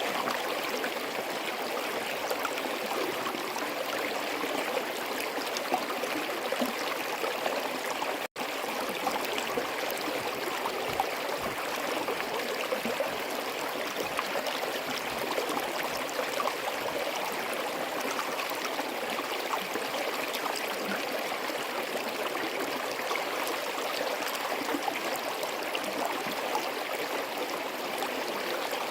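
Forest stream flowing: a steady rush of running water with small gurgles and splashes, broken by a momentary dropout about eight seconds in.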